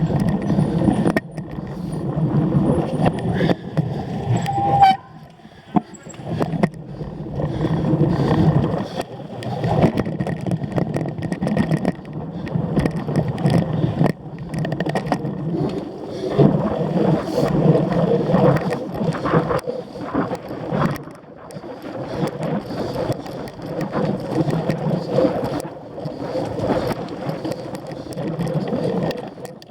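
Cyclocross bike ridden hard off-road: uneven rattling and rolling noise that swells and fades every second or two, with a brief high note about five seconds in.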